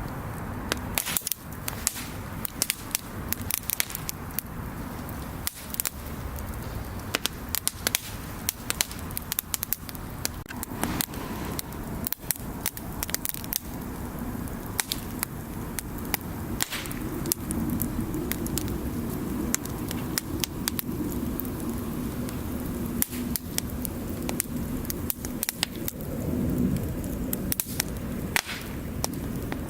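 Wood bonfire crackling, with many sharp irregular pops over a steady low background.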